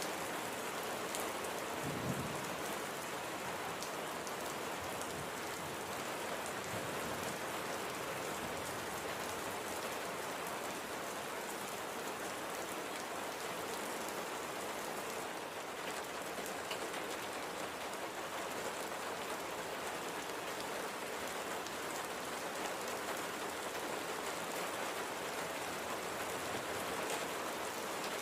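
Light, gentle rain falling steadily, with one brief low thud about two seconds in.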